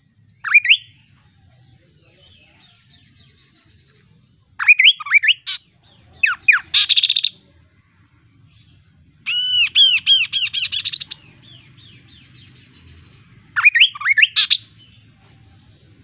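A kaso-kaso bird singing loud, quick whistled phrases of sweeping chirps, five phrases with pauses between them. The longest, a little past halfway, is a rapid run of repeated arched notes lasting about two seconds.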